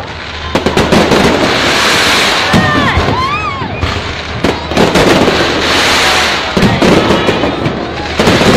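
Aerial fireworks display: dense crackling bangs and bursts from the shells, coming in waves, with louder clusters about half a second in, around 5 s and near the end.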